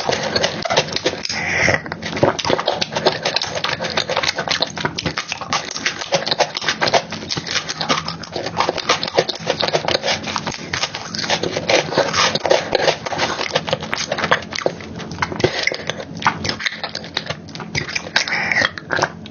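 Close-miked mukbang eating of soft chocolate cake and cream: continuous wet chewing and lip-smacking, a dense stream of small clicks and squelches.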